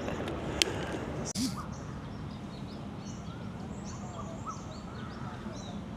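Several birds calling and chirping in short, pitch-bending notes over a steady low background hum, with a sharp click about half a second in and a brief rustle a little later.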